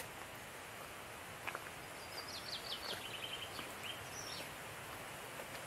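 A small songbird singing a short run of quick high chirps, the notes stepping down in pitch, about two seconds in, over a steady outdoor background hiss.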